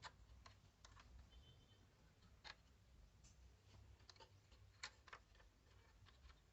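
Near silence with a dozen faint, irregular clicks and light taps, the two clearest about two and a half seconds in and near five seconds in.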